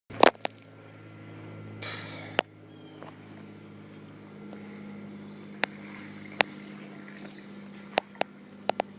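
Engine of a Polaris off-road vehicle running steadily, a low hum, with a handful of sharp clicks and knocks over it, the loudest right at the start.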